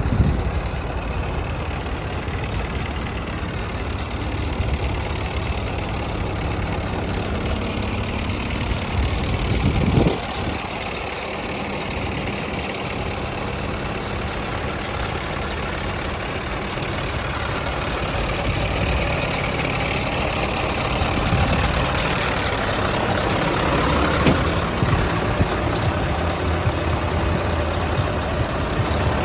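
Scania R500 V8 diesel truck engine idling steadily, with a brief louder burst about ten seconds in. It grows a little louder over the last ten seconds.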